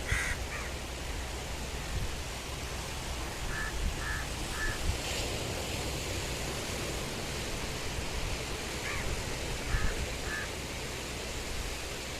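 A bird giving short calls in groups of two or three, repeating several times, over a steady outdoor hiss.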